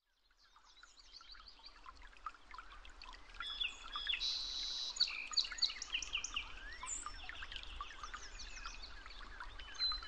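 A chorus of small birds chirping and whistling, many calls overlapping, fading in over the first second or two.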